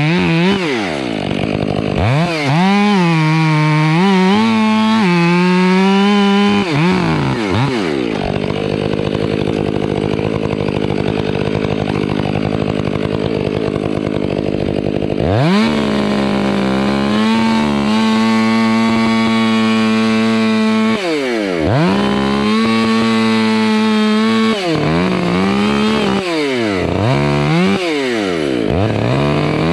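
Chainsaw cutting into a tree's wood, its engine revving up and dropping back several times, with several seconds of lower, steadier running in the middle before it goes back to full revs.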